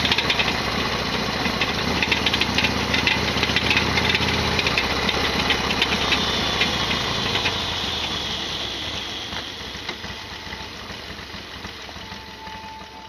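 Harley-Davidson XL1200R Sportster's 1200 cc V-twin running at a steady idle with a loud, dense clattering rattle, the abnormal noise this engine is known for. The sound fades away over the last several seconds.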